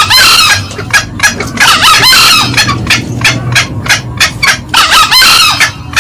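Green junglefowl calling: three short crows, about half a second each, roughly two to three seconds apart, with rapid clucking notes, about three a second, between them. It is a loud lure recording of cock and hen calls.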